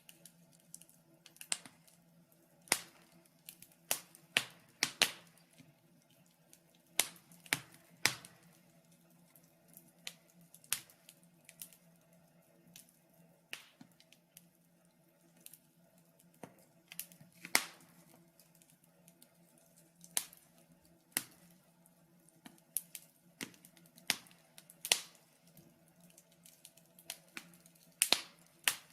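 Wood fire crackling in a fireplace: irregular sharp pops and snaps, a few close together at times, over a faint steady hum.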